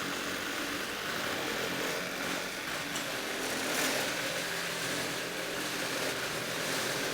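Reciprocating saw running at high speed and cutting steadily through a wooden board, with an even, unbroken sound.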